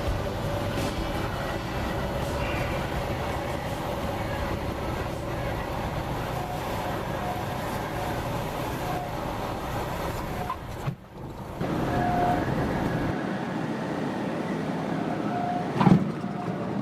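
Cessna 172's engine and propeller running steadily, heard inside the cabin, with a brief drop about eleven seconds in.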